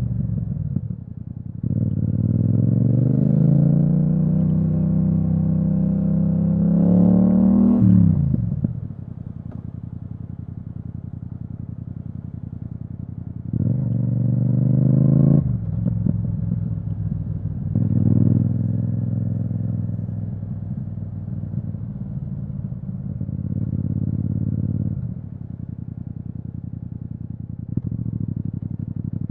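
Yamaha MT-07's parallel-twin engine through an Akrapovic exhaust, under way: about two seconds in it pulls hard with a steadily rising pitch for some six seconds, then the throttle closes and it drops to a low, steady run. Two shorter throttle bursts follow around the middle, then it settles low again.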